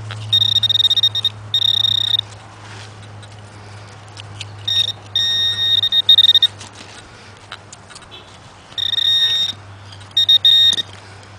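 Garrett Pro-Pointer handheld pinpointer sounding its high electronic buzz in several bursts of differing length, about five in all, as it is swept through loose dirt to locate a coin target.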